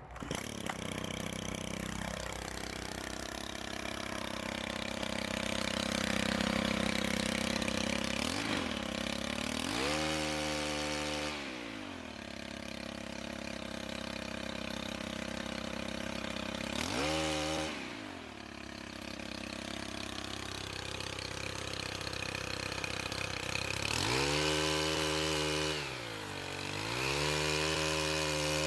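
Pole chainsaw running steadily and revving up to a higher pitch several times, briefly each time, as it cuts tree limbs.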